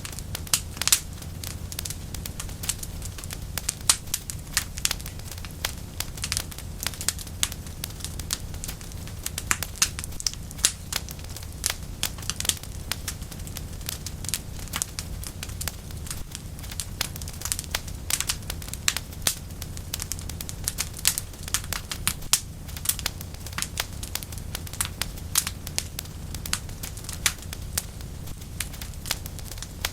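Wood fire burning in a fireplace: frequent sharp crackles and pops at irregular intervals over a steady low rumble of flame.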